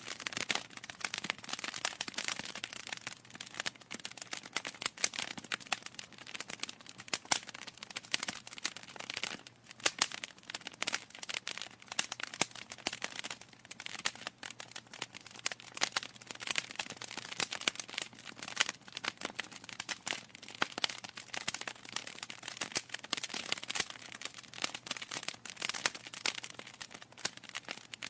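Wood fire burning in a fireplace: a steady stream of irregular sharp crackles and pops from the burning logs over a soft hiss.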